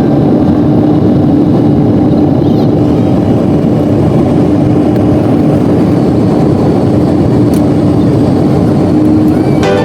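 Steady noise of an Airbus A330 airliner's jet engines and airflow, an even rush with a constant low hum, unchanging throughout.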